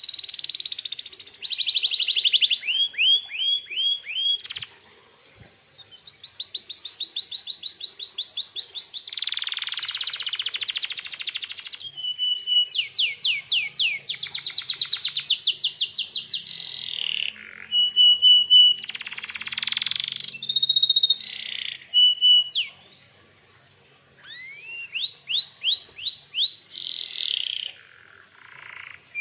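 Domestic canary in full, vigorous song: a long run of fast trills and rolls mixed with clear whistled notes, changing phrase every second or two. It breaks off briefly twice, about five seconds in and again near the end.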